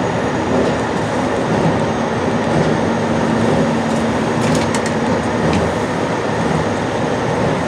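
JR Shikoku 8600 series electric train running at speed: a steady rumble of wheels and running gear on the rails with a low hum, and a few faint ticks about four and a half seconds in.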